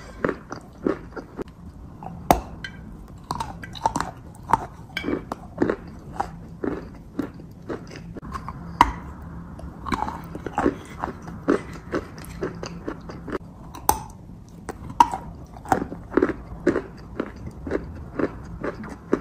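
Biting into and chewing a soft, pasty grey food close to the microphone: a run of short, wet mouth clicks and smacks, several a second.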